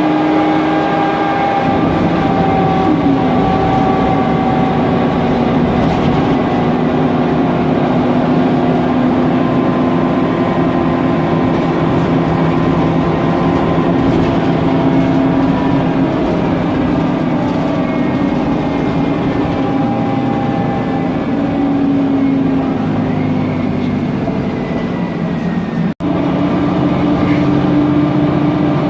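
Mercedes-Benz Conecto NG T city bus driving: its OM 936 G CNG engine and Voith DIWA automatic gearbox run with whining tones that slowly rise and fall as speed changes, over the loud running noise of the drivetrain and cooling fan. The sound drops out for an instant near the end.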